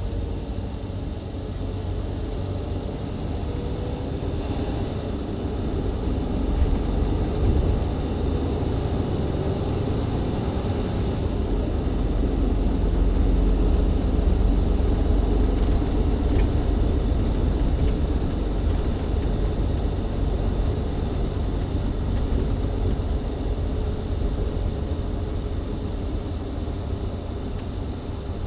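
Mercedes-Benz Citaro C2 LE hybrid bus heard from inside the cabin while driving: diesel engine and Voith automatic gearbox running under a steady low rumble of road noise, growing louder over the first half and then holding. A few light clicks and rattles sound through it.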